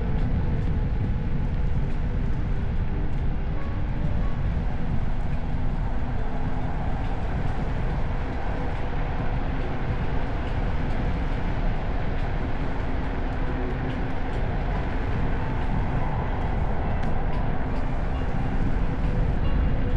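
Steady riding noise of a Kugo Kirin U2 electric unicycle: wind buffeting the action camera's microphone over tyre rumble, with a faint shifting motor whine.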